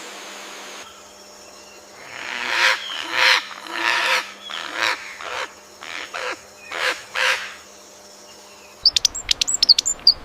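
A bird gives a series of about eight loud, harsh calls, one every half-second or so. Near the end a different bird gives a quick run of high, thin chirps.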